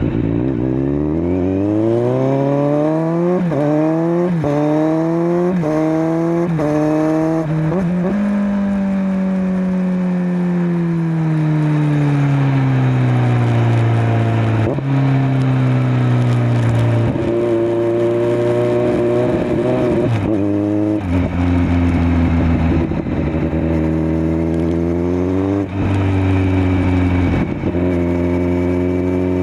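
Kawasaki Z900's 948 cc inline-four through a LeoVince LV10 silencer, accelerating hard through about five quick upshifts, the note climbing and dropping about once a second. It then rolls off with the engine note falling steadily, and settles into cruising with a couple more gear changes near the end.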